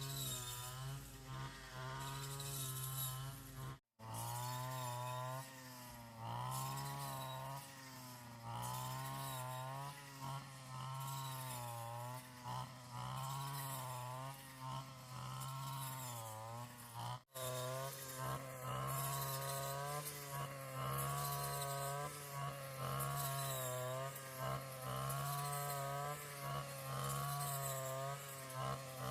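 A small petrol engine running, its pitch rising and falling over and over as the load changes, with two abrupt cut-outs where the recording is edited.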